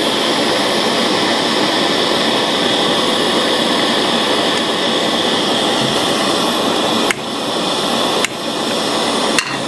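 Steady rushing hiss of a gas soldering torch flame, with a few small metallic clicks near the end.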